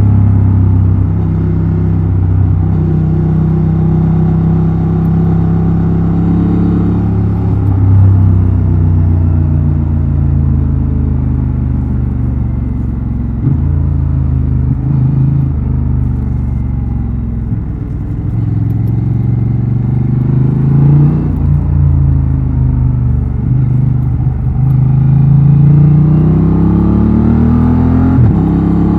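Honda Transalp XL750's 755 cc parallel-twin engine and exhaust under way. The engine note climbs with the throttle and drops sharply several times, as at gear changes.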